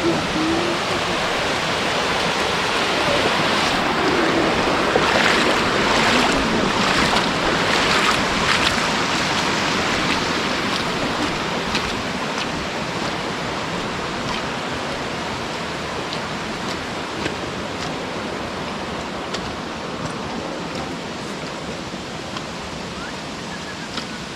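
Steady rush of flowing water from a monsoon-swollen stream, loudest a few seconds in and then slowly fading away.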